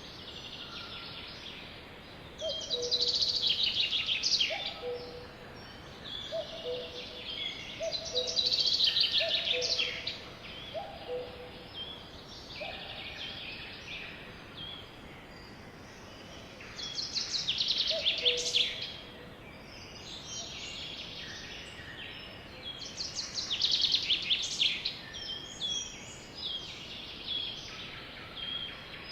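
Songbirds singing: four loud, fast trilled songs of about two seconds each, repeated every several seconds, with a second bird's short, lower call repeated about once a second in between, over a steady outdoor hiss.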